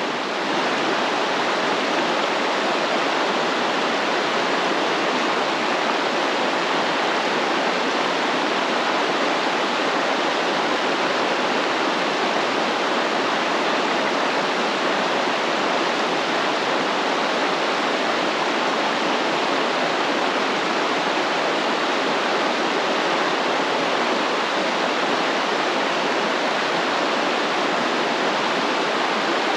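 Flowing stream water, a steady, even sound that holds the same level throughout.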